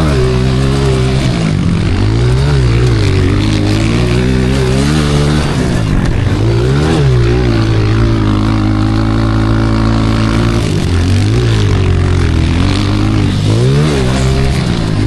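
Honda CRF125 pit bike's single-cylinder four-stroke engine being ridden hard over a rough dirt track, revving up and dropping back again and again as the throttle is opened and shut, with a steadier stretch about halfway through.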